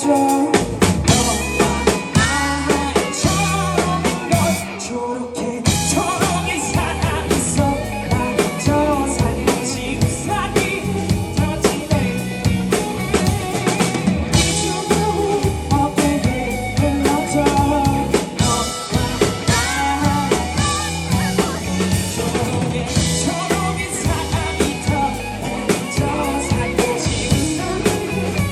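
A band playing a song live, with singing over a full drum kit and bass. The drums and bass come in with a full beat about half a second in.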